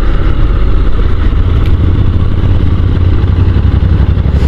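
Honda NC750 DCT's parallel-twin engine running steadily as the motorcycle is ridden, with wind rumble on the microphone.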